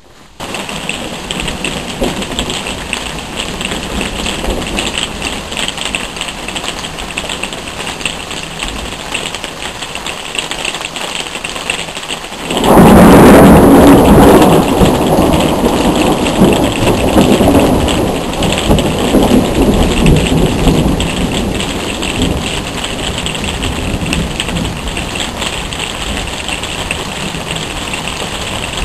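Thunderstorm: steady rain hiss, then a sudden loud clap of thunder about halfway through that rumbles on and slowly fades over about ten seconds while the rain keeps falling.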